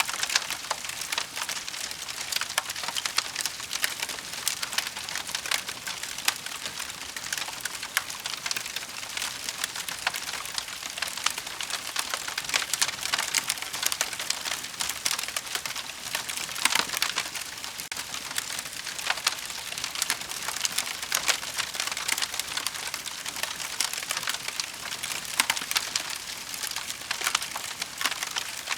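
Wood fire burning in a fireplace: a steady, dense crackle of many small sharp pops.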